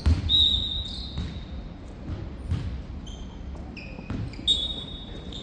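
Sports shoes squeaking on an indoor court floor, with a few dull thumps. The squeaks come in short high chirps, one longer near the start and more about four seconds in.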